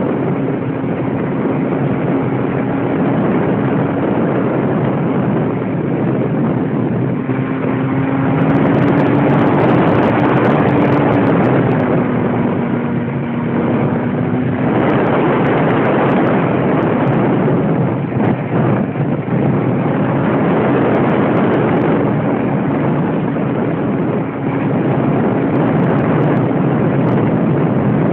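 Radio-controlled airplane in flight: its motor and propeller make a steady hum under a loud rushing noise. The pitch rises a little about ten seconds in and dips shortly after.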